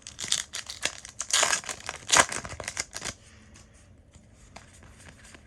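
Crinkling and rustling of a foil trading-card booster pack wrapper being handled, with the loudest crackles about one and a half and two seconds in; it dies down about three seconds in.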